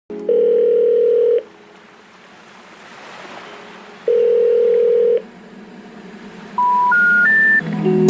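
Telephone line tones: two long single-pitch ringback beeps about four seconds apart over faint line hiss, then three short beeps stepping up in pitch. This is the special information tone, the signal that a call cannot be completed.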